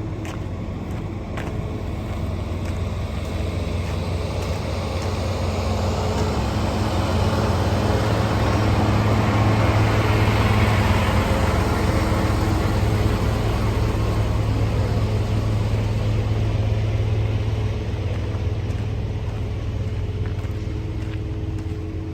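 Semi truck's diesel engine idling with a steady low hum, the engine noise growing louder to a peak about ten seconds in and then fading away.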